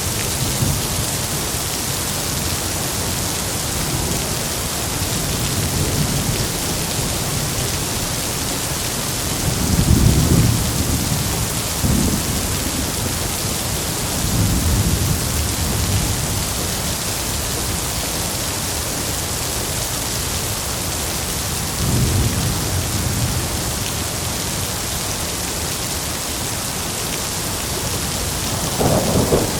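Heavy rain falling with a steady, even hiss, while thunder rumbles low several times. The strongest roll comes about a third of the way in, and another builds near the end.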